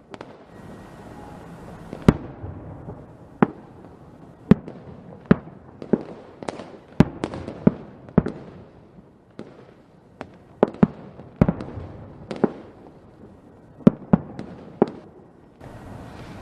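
Fireworks going off: a string of sharp bangs at irregular intervals, about one or two a second, over steady crackling and fizzing between them.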